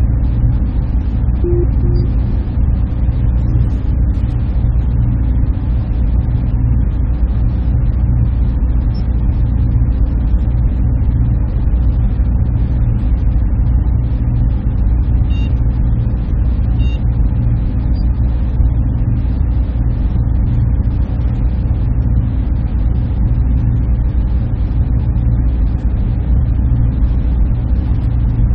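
Server room ambience: the steady low hum and rush of server cooling fans and air handling, unchanging throughout, with a few faint short beeps.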